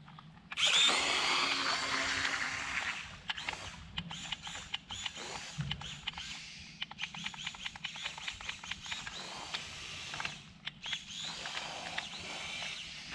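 Small electric motor of a DIY tin-can racing boat starting up suddenly about half a second in and running at a high-pitched whine, with crackling splashes as the boat runs on the water. The whine is loudest for the first few seconds, then carries on less loudly with frequent short dips.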